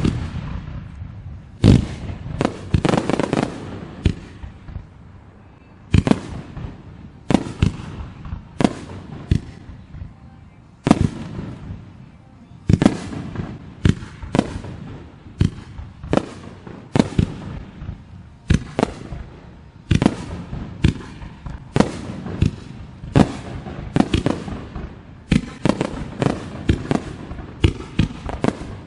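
Aerial fireworks shells bursting: a long run of sharp bangs, each followed by an echoing rumble, coming in quicker succession near the end.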